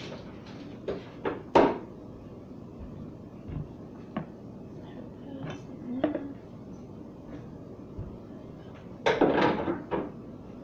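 Condiment bottles and jars being set back into refrigerator door shelves: scattered knocks and clunks, with a longer clatter about nine seconds in.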